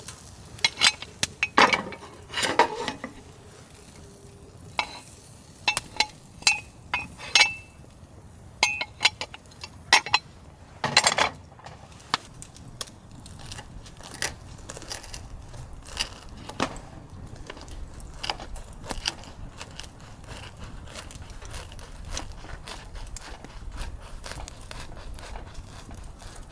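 Metal camp cookware and utensils clinking and knocking: a run of sharp, separate clacks, some ringing briefly, thick during the first half and sparser later, over a faint steady background.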